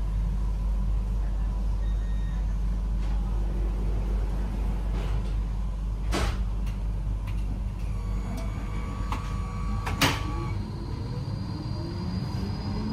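Train standing at a station platform with a steady low rumble. A run of beeping tones sounds about eight seconds in, then a sharp door thud about ten seconds in. Near the end a low whine starts to rise as the train begins to move.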